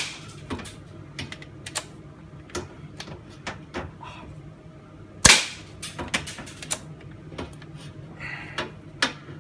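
SRS airsoft bolt-action sniper rifle being test-fired: a sharp shot at the start and another about five seconds in, with the clicks and clacks of the bolt being worked back and forward between them. It is being shot to check that the BBs now feed properly through the repaired CNC hop-up.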